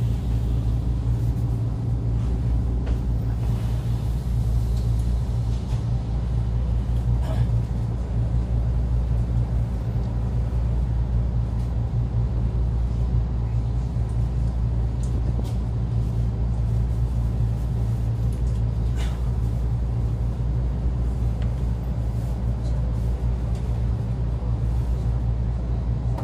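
Steady low rumble heard inside a JR Central 313 series electric train car, the sound of the train's motors and wheels carried through the cabin.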